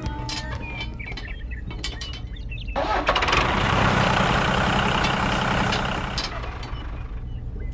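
An engine with a steady low hum. About three seconds in it gets louder and noisier for roughly three seconds, then drops back. A few bird chirps sound over it early on.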